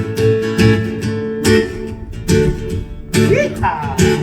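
Reggae band playing an instrumental intro: a strummed guitar chops chords in a steady, even rhythm over sustained bass notes.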